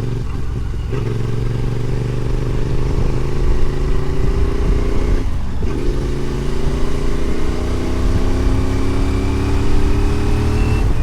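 Adventure motorcycle engine accelerating up through the gears: the revs climb steadily, dip briefly at a gear change a second in and again about five seconds in, then climb again.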